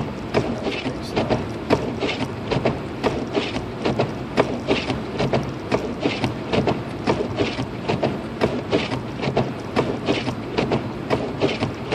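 Car windshield wipers chattering and scraping across a snowy windshield, heard inside the car: rapid, irregular clicking with a hissing squeak every second or so, over a steady low hum of road and engine noise. The wiper blades are worn enough to need replacing.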